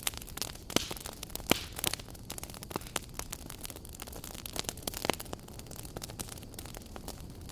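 Wood fire crackling in a fireplace: irregular sharp pops and snaps over a low steady rushing of the flames, busiest in the first couple of seconds.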